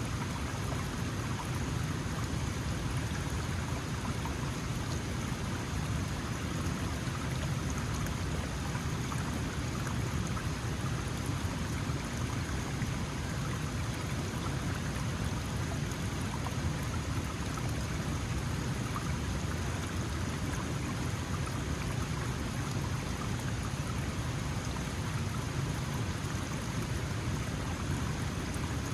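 Small mountain stream flowing steadily over stones, a continuous rush of water with a fuller low part.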